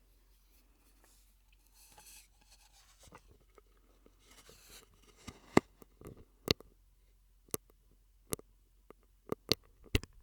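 Close-miked ASMR mouth sounds made through a drinking straw. Two airy, breathy stretches come first, then a string of sharp, irregular wet clicks and pops in the second half.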